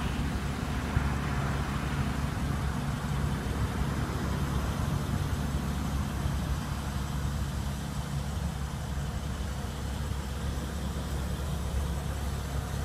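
A motor vehicle engine idling steadily, a constant low hum.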